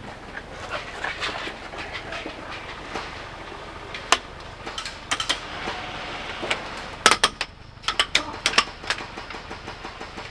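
Airsoft guns firing, with sharp shot clicks in short bursts of two or three, the loudest clusters a little past halfway and near the end.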